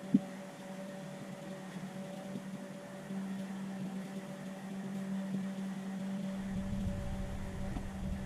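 A steady mechanical hum, like a small motor or fan running, with a sharp knock at the very start and a low rumble joining about six seconds in.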